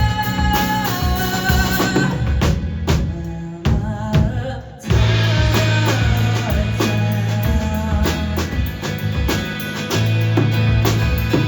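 A live band playing a song, led by a drum kit with kick and snare. About four seconds in the sound briefly thins out, then the full band comes back in with a heavy bass line.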